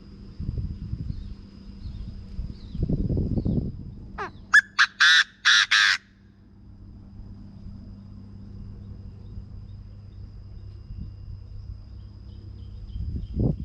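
Chinese francolin calling: one loud phrase about four seconds in, a quick rising note followed by four harsh notes, lasting about two seconds.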